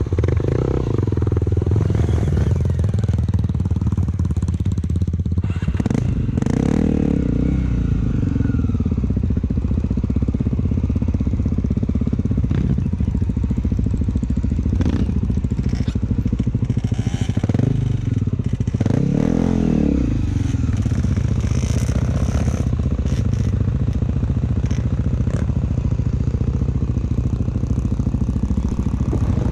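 Honda XR250 Tornado's single-cylinder four-stroke engine running steadily under way, with brief clatter now and then.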